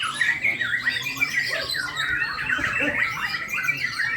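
A songbird singing a fast, continuous song of varied chirps and trills.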